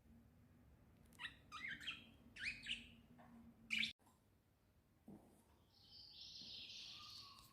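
Small birds chirping in a quick run of sweeping chirps for about three seconds, cut off abruptly just past the middle. A soft hissing sound follows near the end.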